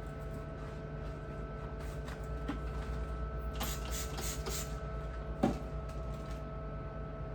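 A cleaning-spray bottle squirted four or five times in quick succession about halfway through, followed by a single knock, over a steady electrical hum.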